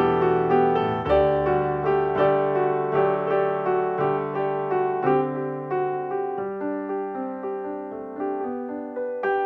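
Background piano music: a gentle melody of evenly paced notes, about two to three a second, over sustained chords.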